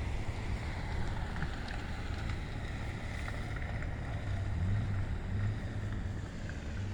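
Snowstorm wind blowing against the microphone: a steady low rumble that swells briefly about five seconds in.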